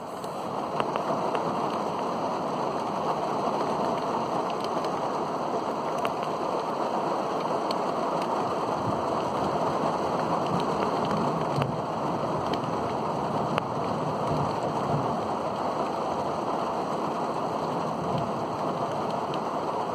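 Steady rain falling during a thunderstorm, an even hiss with scattered sharp drop ticks. It swells up over the first second and then holds steady.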